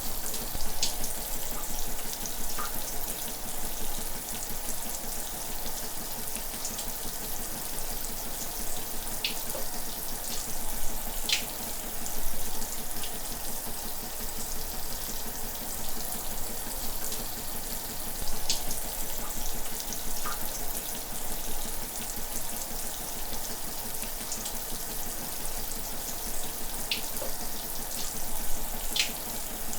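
Shower running steadily: a continuous hiss of spraying water, with a few brief brighter splashes now and then.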